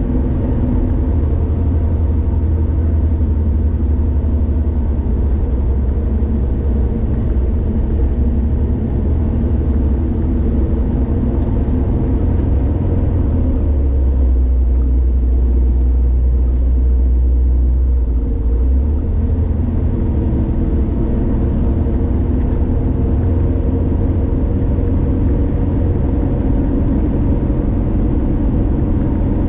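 Car driving on a highway: a steady low rumble of engine and tyre noise. The lowest rumble swells for a few seconds about halfway through.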